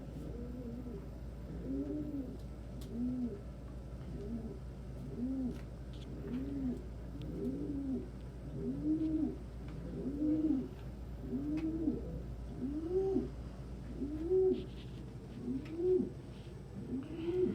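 Domestic pigeons cooing: a steady run of arched coos, about one a second, each rising and falling in pitch. They grow louder and a little higher toward the end, with a few faint clicks.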